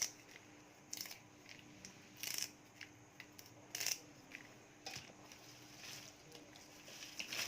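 Curry leaves being plucked off their sprigs by hand: soft, crisp snaps and rustles, irregular and spaced about a second apart.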